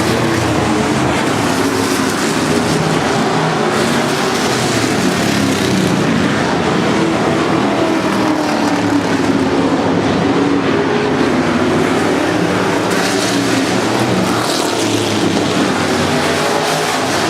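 Racing engines running hard around a speedway, a steady loud drone whose pitch rises and falls as they accelerate and back off.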